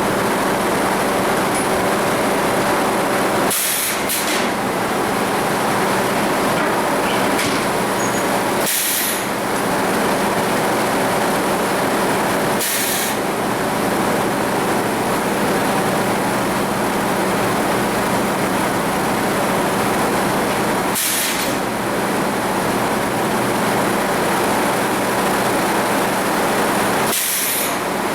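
Sawmill machinery running steadily with a constant hum, broken five times by short hissing bursts spaced several seconds apart.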